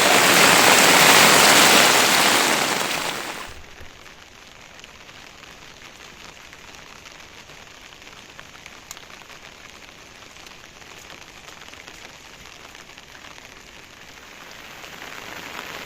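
Rain falling: a loud, heavy downpour for the first three and a half seconds, then suddenly much quieter, steady rain that grows a little louder near the end.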